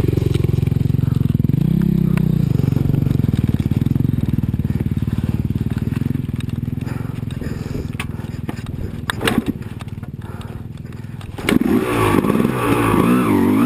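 Two-stroke motocross bike engine running steadily, with a short burst of revs about two seconds in. It eases off past the middle, with a couple of sharp knocks, then near the end comes back louder, its pitch swinging quickly up and down as it is revved.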